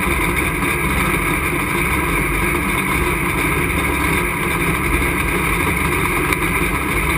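Race truck's engine running at a steady, unchanging pitch, heard from inside the cockpit.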